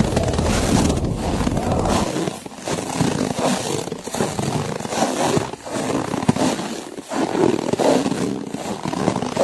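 Snow crunching in a blizzard, a dense hiss that swells and drops about every second and a half. Steady low wind rumble for the first two seconds, then thinning.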